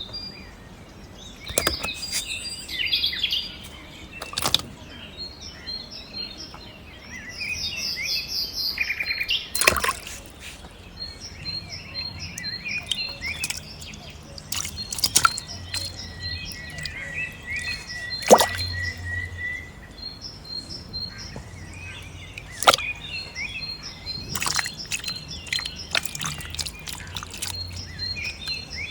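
Small birds chirping over and over in short high notes, with one longer trill about halfway through. Several sharp clicks or knocks are scattered through it, over a faint low hum.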